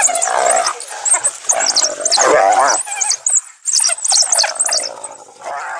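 Pack of African wild dogs twittering with rapid high-pitched chirps while the cornered hyena squeals under attack, its wavering cries loudest a couple of seconds in.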